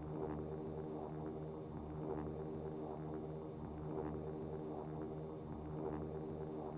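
Steady drone of an airliner's engines heard inside the passenger cabin, a low hum with a slow throb underneath.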